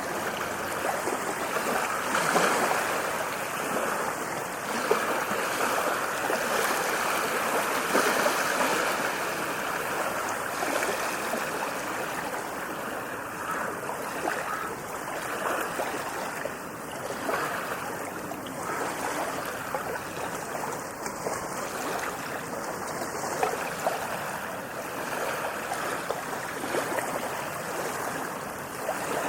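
Ocean surf washing onto a beach: a continuous rush of water, fuller for the first several seconds and easing somewhat after.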